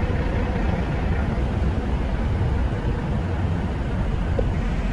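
Steady low rumble of idling diesel truck engines, with no distinct events.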